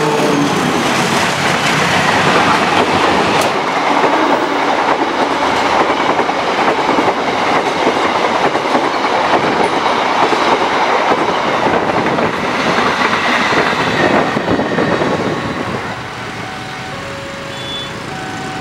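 Diesel-hauled passenger train passing close by, its coach wheels clattering on the rails. Loud for about fifteen seconds, then dropping off as the last coach goes by.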